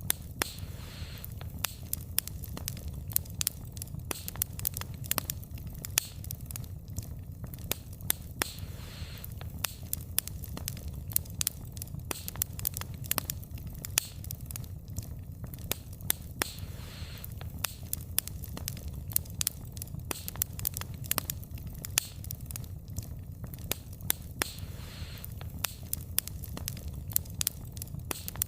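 Wood fire burning, with frequent sharp crackles and pops from the burning logs over a steady low rumble of flames.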